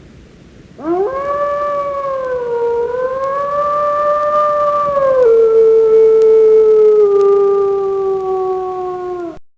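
Dog howling: one long howl that rises sharply at the start and holds with a slight waver. It then steps down in pitch and slowly sinks before being cut off.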